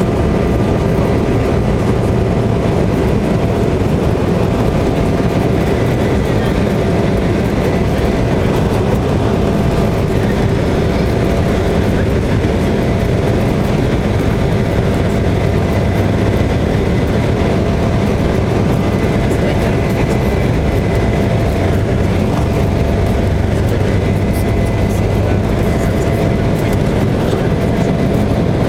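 Embraer 170's General Electric CF34 turbofans running steadily: a loud low rumble with a faint steady whine over it.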